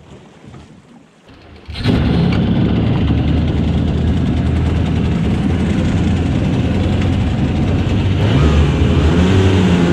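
The small snowmobile engine of a home-built aluminum jet boat catches abruptly about two seconds in, then runs steadily, picking up slightly near the end.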